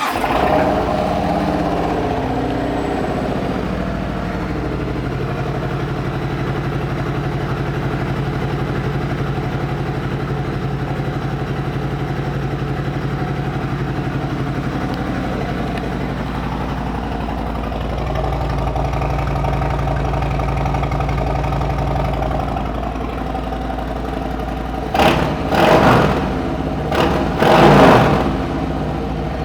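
Harley-Davidson Milwaukee-Eight 114 V-twin with aftermarket TAB pipes, just started and idling steadily, then blipped three times near the end.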